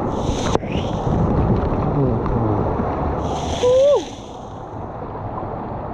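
Water rushing and splashing around a swimmer floating down a water-park lazy river, with people's voices in the background. Two short splashes, about half a second in and just past three seconds, and a brief falling yelp, the loudest sound, a little before four seconds.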